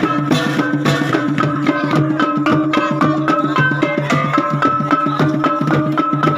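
Gung-gendang ensemble music: fast, dense drumming over steady low gong tones, with a high melody line moving in short held notes above.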